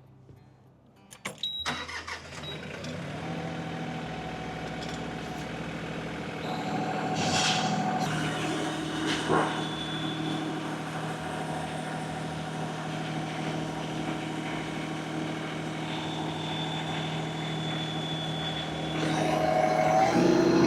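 LS MT226 compact tractor's diesel engine, coming in after a few knocks about two seconds in, then running under load while the front loader lifts a load of about 2,200 lb, over its rated capacity. The engine speed steps up near the end as RPM is raised to push the lift higher.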